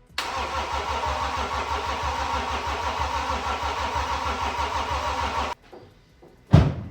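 BMW X5 M50d's 3.0-litre straight-six diesel turned over by the starter motor in an even, rhythmic cranking for about five seconds without catching, then cut off abruptly. The engine does not fire, which the owner puts down to a missing mass airflow sensor and possibly an unplugged glow plug module. A single loud thump follows near the end.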